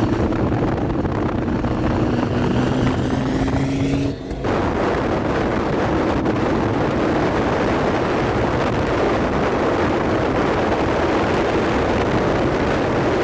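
Car engine and exhaust running loudly and steadily, with a brief dip about four seconds in.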